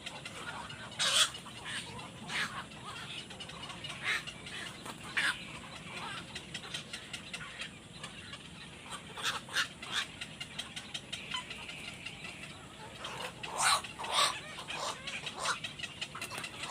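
Birds calling in short, scattered calls every second or two, with a quicker run of calls near the end.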